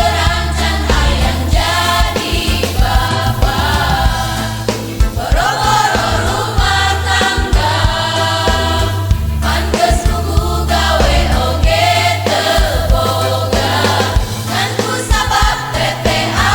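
A choir singing a Sundanese regional song in parts, with held low bass notes underneath.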